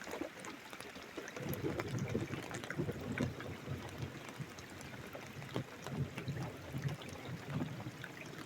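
Thunder rolling in a long, uneven low rumble that starts about a second in and dies away near the end, over rain pattering and dripping.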